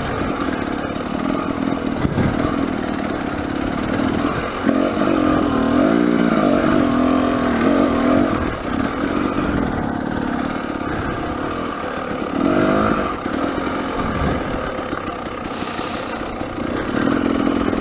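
300cc two-stroke dirt bike engine running under changing throttle, its pitch rising and falling several times as the revs go up and down.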